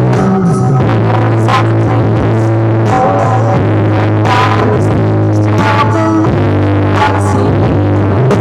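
Loud electronic remix music played through the LM Audio Classic competition sound system, with a heavy, steady bass line.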